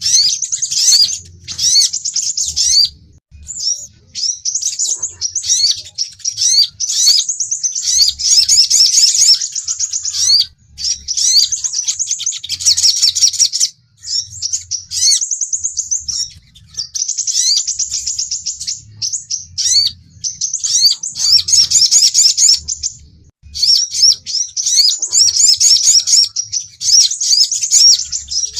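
Sunbird lure calls: rapid, high-pitched chirping and trills in bursts of a few seconds, broken by short pauses.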